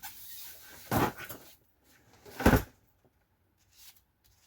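Two short knocks about a second and a half apart, with a soft rustle before the first, from handling parts during the wheel removal.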